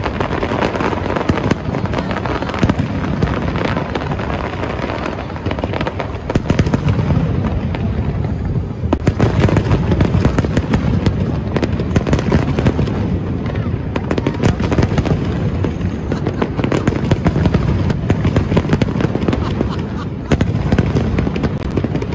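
Aerial fireworks shells bursting in a dense, continuous barrage: deep booms overlapping with many sharp pops and crackles, with no pause.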